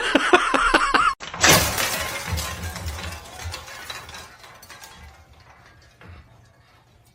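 A loud crash of something shattering about a second and a half in, its clatter dying away over the next few seconds.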